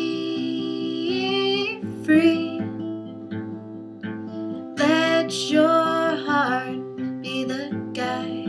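Acoustic guitar strumming under a woman's voice holding long sung notes without words, sliding between pitches.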